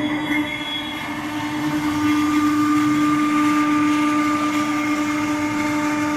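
CNC router spindle running with a steady whine, over a rushing noise that grows a little louder about two seconds in.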